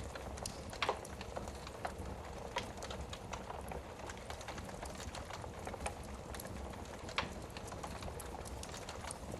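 Wood fire crackling in a fireplace: a steady hiss of burning with irregular sharp pops and snaps, the loudest about a second in and about seven seconds in.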